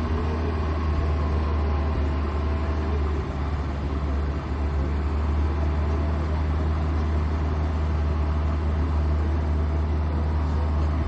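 Lotus Esprit's 2,170 cc four-cylinder engine idling steadily, a deep, even exhaust rumble from its muffler.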